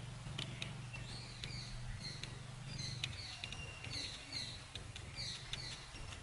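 Birds chirping: short high notes repeated over and over, several sliding downward, over a low steady hum.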